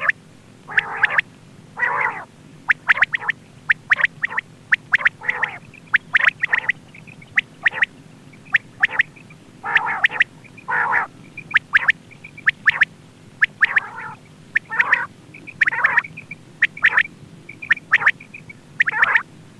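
Quail calling over and over, used as a hunting lure call: short clear notes mixed with harsher raspy calls, about one or two a second without a break.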